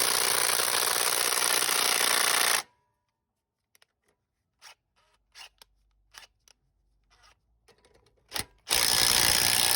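Impact wrench hammering on a stubborn tie rod nut whose stud spins, held with vice grips, in two bursts: one of about two and a half seconds that stops abruptly, then a few faint clicks of handling, then a second burst near the end.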